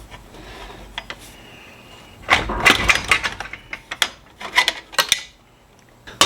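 Socket ratchet clicking and metal clattering as the exhaust header fasteners come off a Harley-Davidson engine, with a dense run of sharp clicks in the middle.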